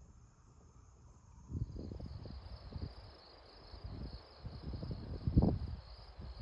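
Crickets chirping in a steady, high, pulsing trill. Uneven low rumbles and bumps come in about a second and a half in and are loudest near the end.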